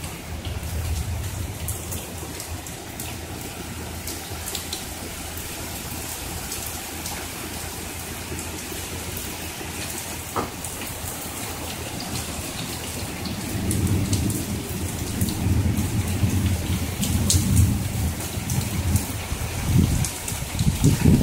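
Steady rain falling during a summer thunderstorm, with individual drops ticking close by. About two-thirds of the way through, a low rumble of thunder builds and rolls on, growing louder near the end.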